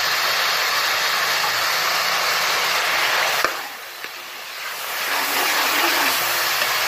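Onions, ginger-garlic paste and spices sizzling as they fry in ghee in a pan, during the bhuna stage of making a masala. A steady hiss, broken by a small click about three and a half seconds in and a quieter stretch before the sizzle comes back.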